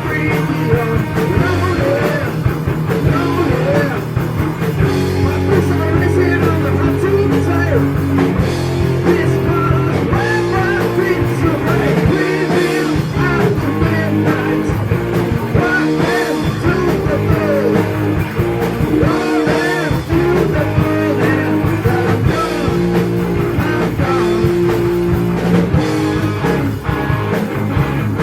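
Heavy metal band playing live: distorted electric guitars, bass and drums with a singing voice over them.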